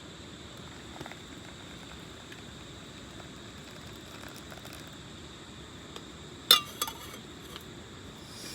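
A few sharp clinks, the loudest about six and a half seconds in, with two smaller ones just after, over a faint steady hiss with a thin high whine.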